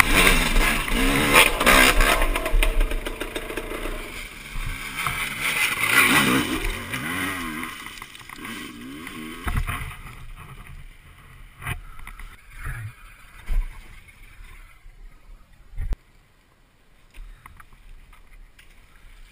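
Dirt bike engine revving hard, its pitch rising and falling, then fading away over the next few seconds. A few scattered knocks follow.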